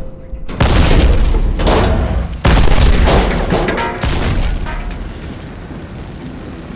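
Dynamite explosion sound effects: a sudden blast about half a second in, a second one as loud about two seconds later, a smaller one near four seconds in, then a fading rumble.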